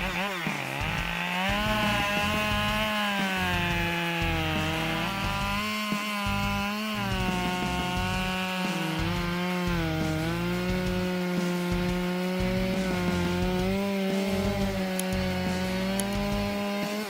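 Husqvarna 572 XP two-stroke chainsaw running at high revs while cutting dry wood. Its engine pitch repeatedly sags and recovers as the chain bites into the log.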